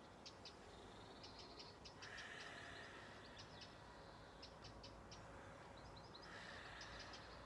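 Faint outdoor quiet with distant birds chirping: short, high chirps scattered throughout. A steady, faint high tone comes in about two seconds in and stops about six seconds in.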